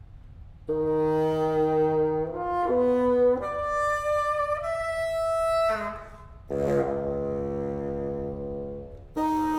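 Solo bassoon with a chamber ensemble of winds and strings playing long held notes. The first phrase steps upward in pitch, then comes a short pause and a denser held chord, with a new held note entering near the end.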